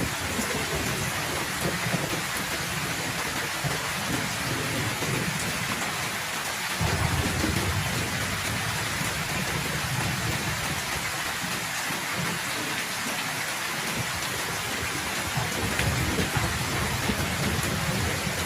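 Heavy rain falling steadily, with low rolling thunder rumbling under it; a fresh roll of thunder comes in suddenly about seven seconds in and swells again near the end.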